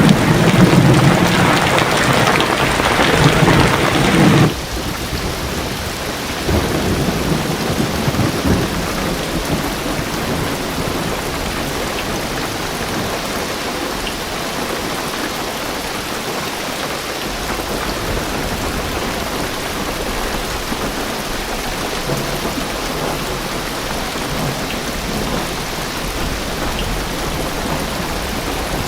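Heavy rain drumming on a car roof and windows, with a rumble of thunder. The loud rumble cuts off suddenly about four seconds in, a weaker rumble follows a couple of seconds later, and then steady rain continues.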